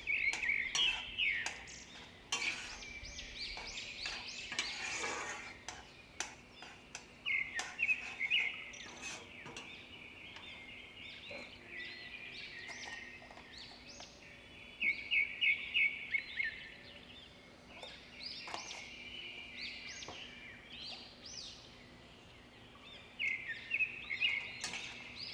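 Birds chirping in quick runs of short high notes, on and off, the busiest run about fifteen seconds in, with a few scattered clicks.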